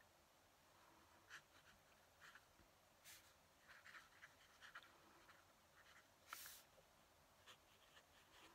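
Faint scratching of a fountain pen nib on paper as someone writes in short, irregular strokes, with one longer, louder stroke about six seconds in.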